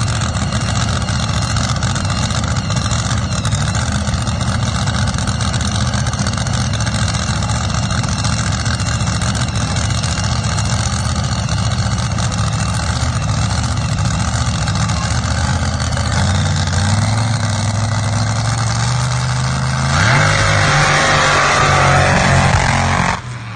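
Drag-racing car engines running loud and steady, with a low rumble under a constant noisy wash. About twenty seconds in an engine revs up and a louder, harsher noise joins for the last few seconds.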